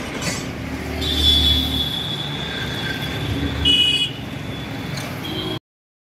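Street traffic noise with a low rumble of a passing vehicle and a thin, high whine, then a short high-pitched toot near the end. The sound cuts to silence abruptly just before the end.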